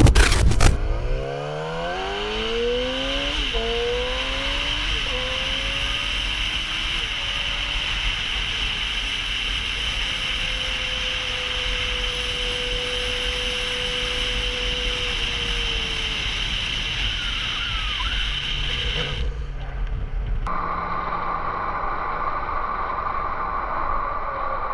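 Motorcycle engine accelerating hard through the gears, its pitch climbing and dropping back at each shift, then holding a steady note at highway speed under heavy wind rush. The sound changes abruptly near the end while an engine keeps running.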